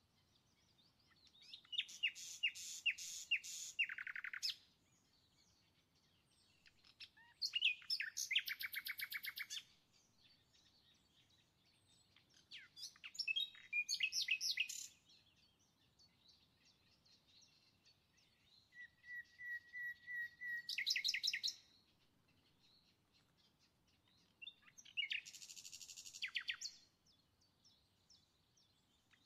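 A songbird singing: five phrases of rapid trills and chirps, each two to three seconds long, with pauses between them.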